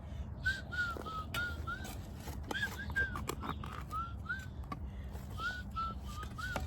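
A string of short whistled notes, each a quick rise and fall in pitch, two or three a second, over scattered scrapes and knocks.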